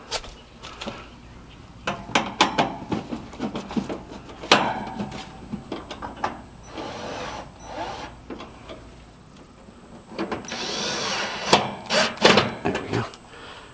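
Power drill running in short spurts, driving screws, among clicks, knocks and scraping of parts being handled, with a longer run of the drill about ten seconds in.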